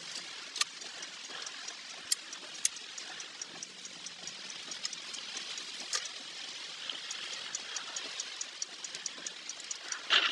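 Steady hiss of rushing water, with a few sharp clicks scattered through it. In the second half a fast, even ticking runs at about five a second.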